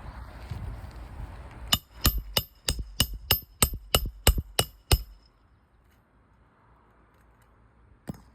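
Hand hammer driving a roofing nail into an asphalt shingle: eleven quick, evenly spaced strikes at about three a second, each with a short metallic ring. Scraping and handling noise comes before the strikes, and a single knock near the end.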